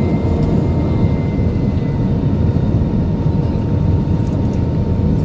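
Inside the cabin of an Airbus A320-214 with its CFM56 engines running: a loud, steady low rumble with faint steady whine tones above it.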